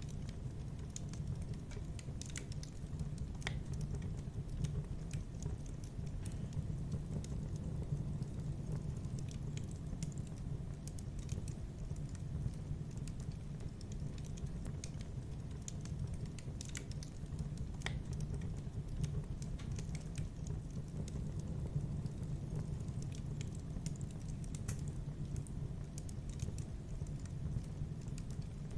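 Fire crackling in a fireplace: irregular sharp pops and snaps scattered over a steady low rumble.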